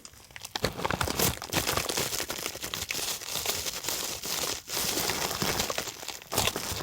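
Packaging crinkling and rustling as it is handled and opened by hand: a dense run of small crackles and clicks, pausing briefly twice near the end.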